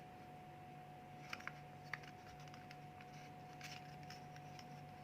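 Origami paper being folded and creased by hand: a few soft crinkles and taps, over a faint steady hum.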